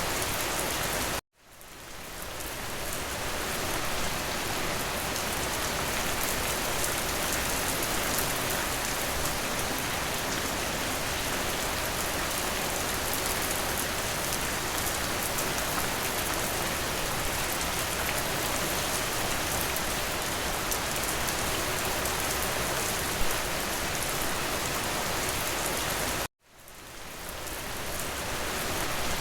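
Steady rain pattering on a window. About a second in and again near the end, it cuts out abruptly and fades back in over a couple of seconds.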